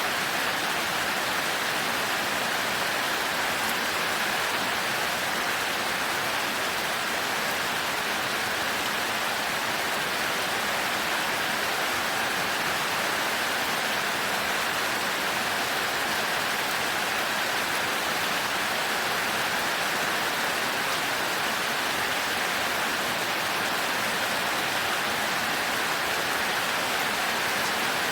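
Heavy rain falling steadily, an even hiss that does not change, with no thunder.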